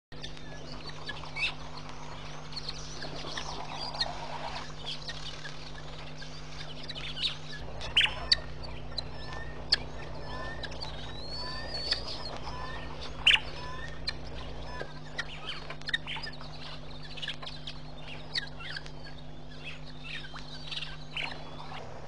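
Wild birds calling: many short, sharp chirps and calls, with a few louder ones about 8 and 13 seconds in, over a steady low hum.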